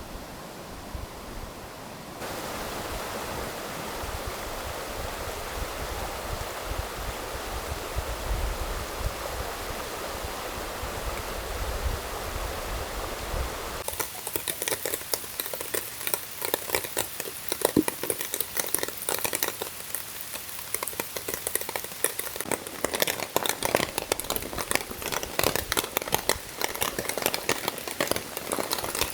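Steady rain and running-water hiss, with a low rumble under it in the first half. About halfway through the sound changes to dense, close, crackling patter of raindrops.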